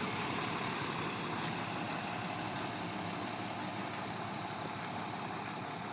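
The 2012 IC CE school bus's MaxxForce DT diesel engine idling steadily.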